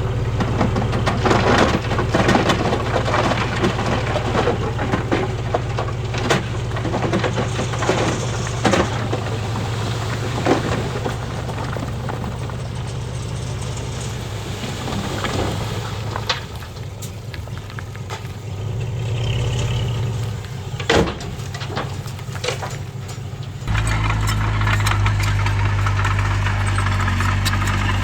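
Diesel engine of heavy earthmoving machinery running steadily, with repeated clanks and rattles over it. The engine sound shifts abruptly and grows fuller near the end.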